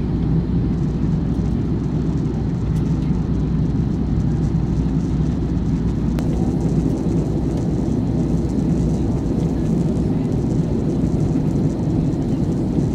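Steady low drone of a passenger airplane cabin in flight: engine and air noise with a few low hums.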